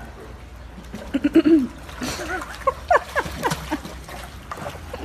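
Dog whining and yelping excitedly in a rapid series of short, high cries that bend up and down in pitch, first a few about a second in, then a quick string of them over the next two seconds.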